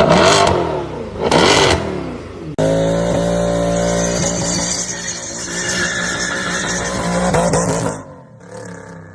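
Mercedes-AMG GT Black Series twin-turbo V8 revving hard twice, the pitch sweeping up each time. Then, after an abrupt cut, the engine runs at a steady note for about five seconds and stops suddenly near the end.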